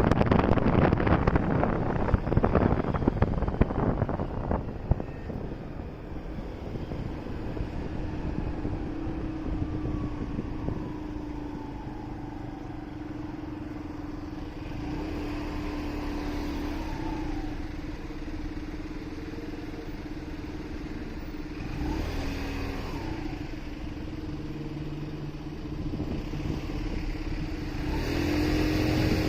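Motorcycle ride through city traffic. Wind noise on the microphone dies away over the first few seconds as the bike slows. The engine then runs with a steady hum while other traffic passes, and the engine and wind noise rise again near the end as the bike moves off.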